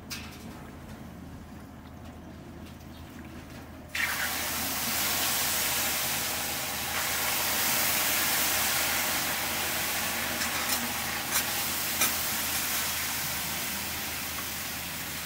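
Offal (horumon) sizzling as it starts to cook: a sudden loud hiss about four seconds in that carries on steadily, with a few sharp pops.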